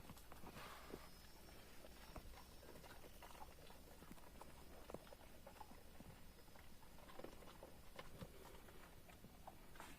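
Faint, irregular clicks and patter of goats and sheep moving about and feeding on forage cactus pads.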